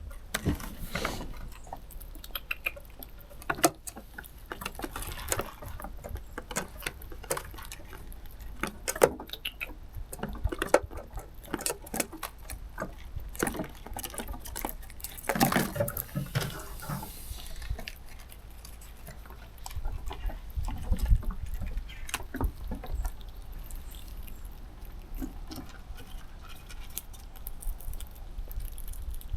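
Squirrels feeding on snacks: irregular small clicks and crunches, close to the microphone, with a steady low rumble underneath.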